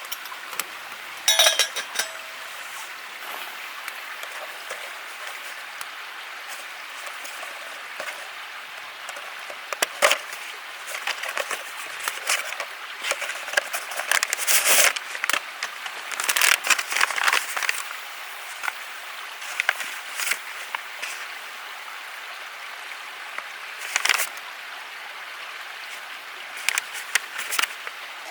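Scattered clinks and knocks of camp gear being handled, loudest in short clusters, over a steady rush of flowing water.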